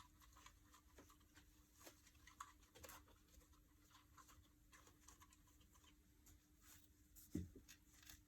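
Near silence with a faint steady hum, scattered faint clicks and taps, and one louder soft knock about seven seconds in.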